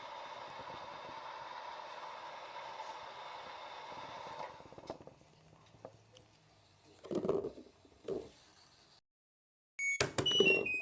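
LG washing machine spinning on a low-speed spin cycle: a steady whir with a whine, which dies away about four and a half seconds in. A couple of short dull knocks follow, and after a brief dead gap there is a loud sudden sound near the end.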